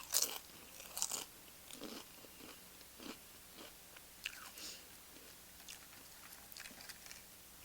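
Close-up eating sounds of tortilla chips: two loud crunching bites in the first second or so, then quieter chewing with scattered crunches.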